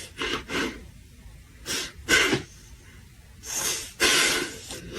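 A run of short, breathy, sneeze-like bursts of air, then two longer breathy bursts near the end.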